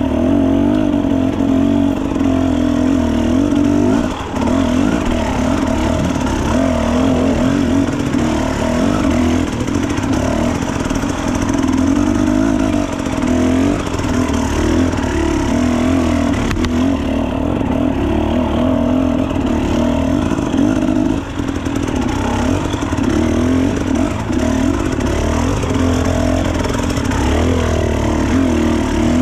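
Enduro dirt bike engine running while riding, its pitch wavering as the throttle is worked, with short drops in level about four seconds in and again past twenty seconds.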